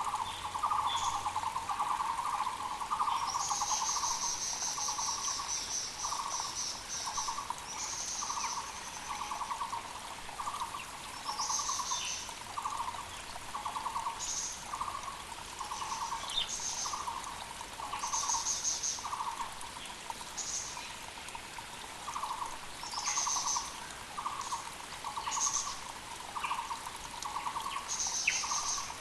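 Muller's barbets (Taiwan barbets) calling over and over: low, rapidly pulsed notes about one a second, running together for the first few seconds. Other birds add short high buzzy phrases, over a faint steady creek.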